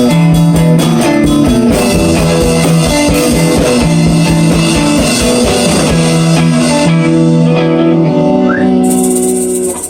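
Rock band jam: electric guitar riff over drum kit and bass guitar. The drumbeat stops about seven seconds in while the guitar holds ringing notes, and the band cuts off near the end.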